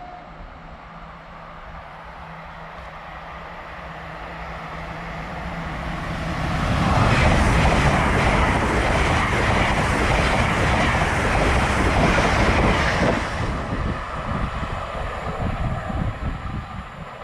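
Passenger train passing through the station: its noise grows over several seconds, then a loud rush of wheels on rail with repeated clacks for about six seconds, then fades as it goes away.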